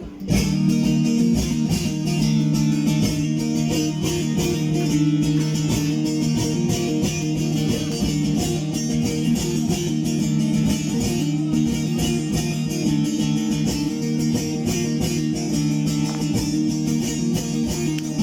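Bağlama playing an instrumental semah passage: fast, dense strumming over steady low drone notes, starting abruptly right at the beginning.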